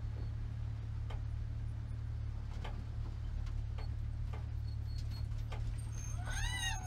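Porsche 944 Spec race car's four-cylinder engine idling at about 1100 rpm as the car rolls slowly, a steady low drone heard from inside the stripped cockpit. Short sharp descending chirps come about once a second over it, and near the end a brief tone rises and then falls.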